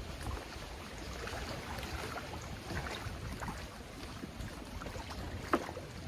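Wind buffeting the camera microphone over water lapping at a kayak's hull, with small scattered knocks and one sharper light knock near the end.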